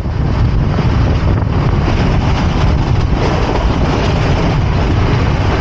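Nilgiri Mountain Railway toy train running, a loud steady rumble with a rushing hiss over it.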